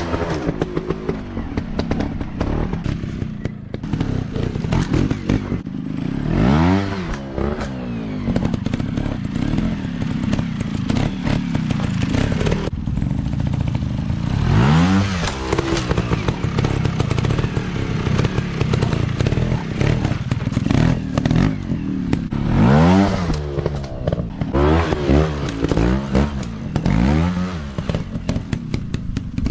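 Dirt bike engines revving, with the pitch rising and falling again and again as the throttle is opened and closed.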